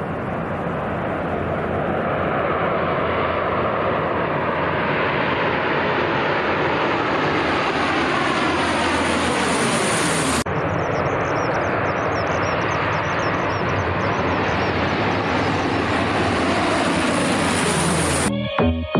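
Aircraft engines growing steadily louder as a plane passes close by, with a falling whooshing sweep. An edit cut about ten seconds in leads to a second, similar pass, which breaks off near the end as background music starts.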